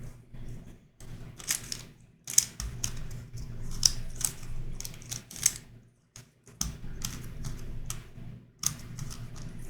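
Plastic clicking and clacking of a YuXin Corner Helicopter 2x2 twisty puzzle being turned by hand, in quick runs of clicks broken by a couple of short pauses.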